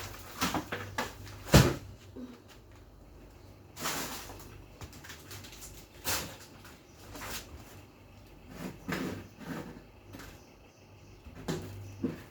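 Knocks, clunks and rustling of things being handled and moved about, with one sharp loud knock about one and a half seconds in, over a faint steady hum.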